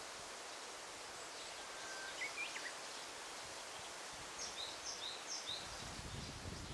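Forest ambience: a steady hiss of rustling leaves with birds calling. There are a few chirps about two seconds in, then a run of short, high, falling notes repeated about twice a second. A low rumble comes in near the end.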